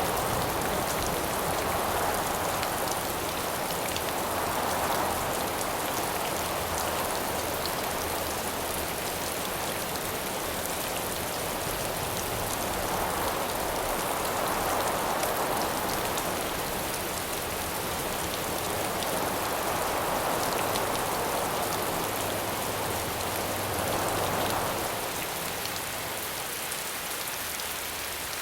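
Steady rain falling, with a dense patter of drops, while wind swells and fades every few seconds.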